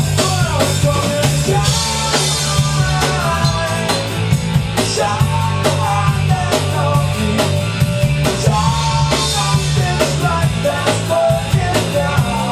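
Rock band rehearsing a hard-rock cover: a drum kit keeps a steady beat under a heavy bass, with a lead melody line that slides and bends in pitch on top.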